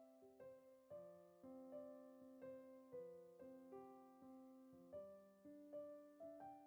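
Soft, quiet background piano music: gentle notes struck about twice a second, each fading away.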